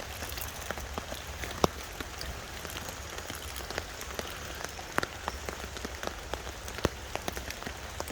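Heavy rain falling on a tarp overhead: a steady hiss with scattered sharp taps of single drops, a few louder ones about a second and a half, five and seven seconds in.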